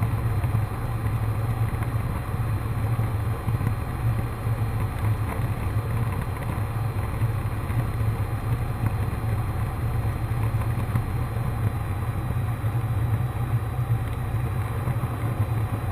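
Cessna 152's four-cylinder Lycoming engine and propeller droning steadily in cruise, heard inside the cockpit.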